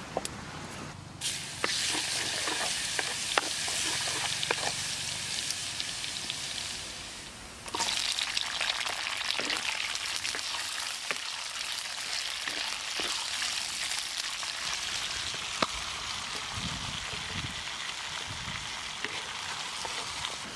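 Chopped garlic sizzling as it hits hot oil in a pan, starting suddenly about a second in, with a few light knocks from stirring. The sizzle dies down, then a fresh, louder burst starts about eight seconds in and goes on as garlic and red chillies fry.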